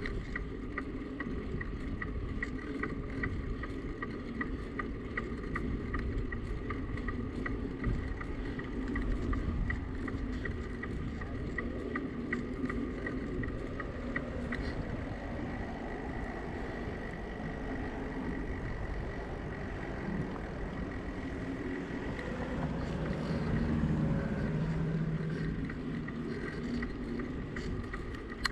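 Riding a bicycle: a steady rush of wind and tyre noise with a thin high whine and regular light ticking through the first half, and a low hum that swells and fades near the end.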